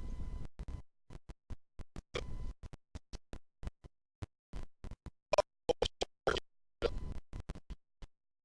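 Choppy, broken-up audio: rapid clicks and short clipped fragments of sound cut off again and again by gaps of dead silence, the sign of a faulty recording or stream dropping out. The fragments come thicker and louder about five to seven seconds in.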